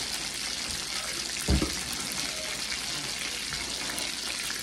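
Hamburger patties sizzling steadily in hot grease in a frying pan, with a brief thump about one and a half seconds in.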